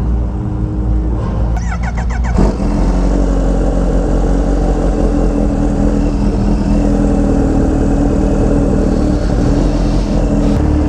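Kawasaki Ninja H2R's supercharged inline-four running at a steady low speed, its engine note holding nearly constant, with a brief rapid rattle about two seconds in.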